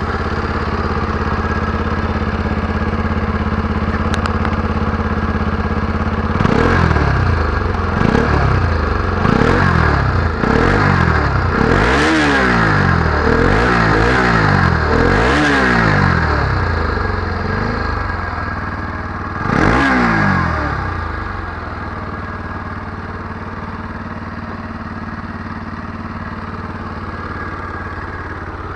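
Bajaj Pulsar NS200's single-cylinder engine through its stock exhaust, idling steadily, then blipped: a run of quick throttle revs, each rising and falling, about one every second or so for roughly ten seconds. One more blip follows a few seconds later before it settles back to idle.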